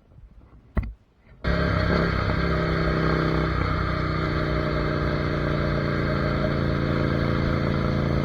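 A Ducati Monster 797's air-cooled L-twin engine running steadily under way, starting abruptly about a second and a half in. Before it there are only a few faint knocks and a short click.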